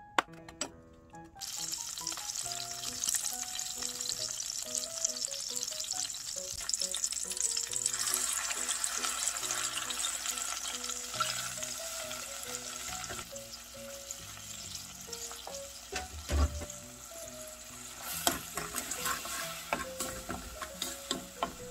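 Garlic cloves sizzling in hot oil in an aluminium saucepan; soy sauce and red pepper seasoning then fry and are stirred with a wooden spatula, the sizzle stronger in the second half, with one dull knock about three-quarters through. A light background tune plays underneath.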